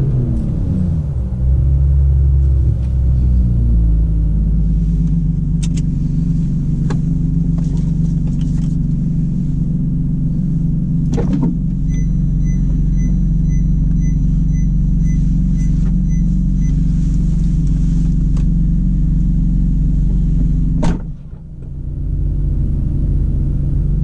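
Ferrari 458 Italia's V8, heard inside the cabin, slowing and dropping to idle in the first couple of seconds, then idling steadily. Midway a regular beeping sounds for several seconds, about two beeps a second, and a sharp thump comes near the end.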